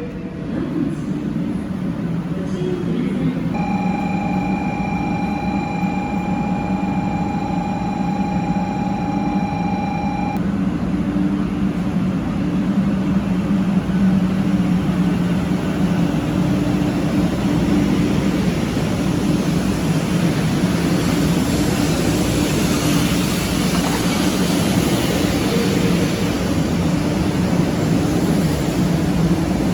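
Shinkansen bullet train running at speed, a loud steady rumble and rush with a low hum. A steady high tone sounds for about seven seconds, starting a few seconds in.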